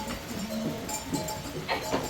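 Farm animals calling briefly a couple of times over a steady bell-like ringing.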